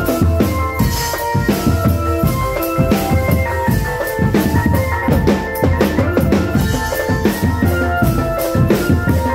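Drum band music: bass and snare drums beating a quick, dense rhythm under a melody of held notes.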